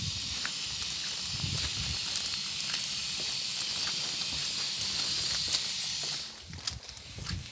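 Natural gas escaping from a leak with a steady high hiss, which cuts off about six seconds in. A few dull low knocks sound alongside it.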